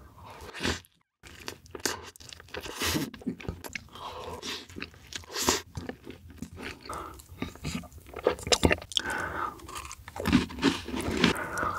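Close-miked ASMR eating sounds: a man biting into and chewing soft cheeseburgers, then spoonfuls of matcha dessert, in a dense run of short bite and chew noises. The sound drops out briefly about a second in.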